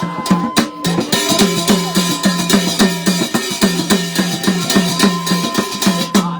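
Instrumental interlude of Garhwali jagar folk music: fast, dense drumming under a repeating melodic line and a steady held high tone.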